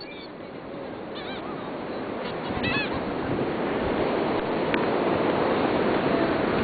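Gulls calling in two short bursts, about a second in and again near three seconds, over a steady wash of surf that slowly grows louder.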